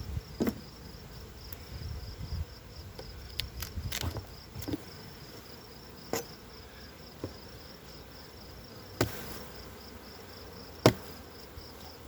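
Honey bees buzzing in an opened hive, a steady low hum, with scattered knocks and clicks as the wooden hive parts are handled; a sharp knock near the end is the loudest.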